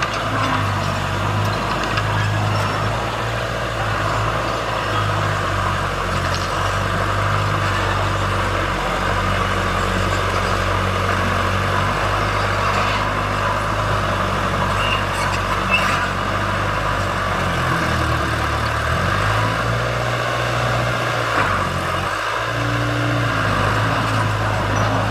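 Heavy diesel engine of earthmoving machinery running steadily. Its note dips lower about eighteen seconds in, then picks back up. Two brief sharp knocks sound along the way.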